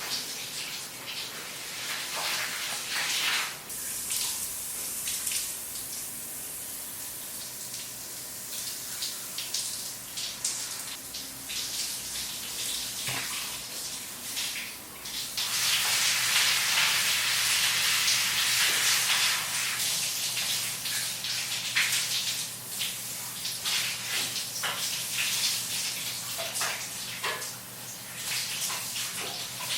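Kitchen tap running water into a sink, with scattered clinks and knocks of dishes being handled. The stream of water gets louder from about halfway through for several seconds.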